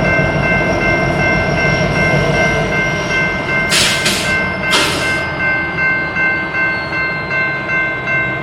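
BNSF freight train rolling slowly by, with a steady high squeal held throughout. There are two short hisses of air about four and five seconds in. In the second half the wheels clack rhythmically, about twice a second.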